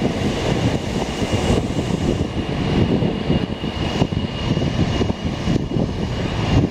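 Semboku Rapid Railway 7020 series electric train rolling into the platform and braking to a stop. Steady rumble of wheels and running gear, with a thin steady high tone over it from about a second and a half in until near the end.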